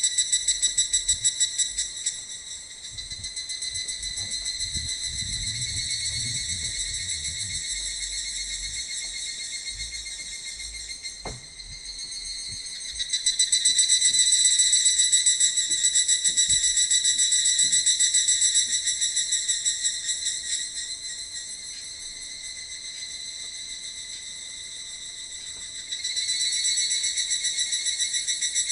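A continuous, rapidly pulsing high insect trill that swells and fades in stages, loudest from about 13 seconds in and again near the end. A single sharp click comes about 11 seconds in.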